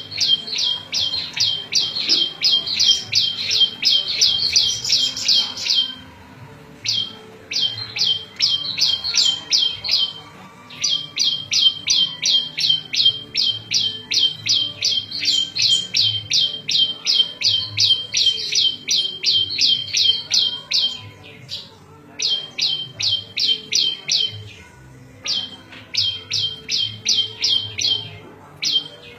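Prenjak lumut singing: long trains of sharp, high chirps repeated about four or five a second, broken by short pauses about six, ten, twenty-one and twenty-five seconds in.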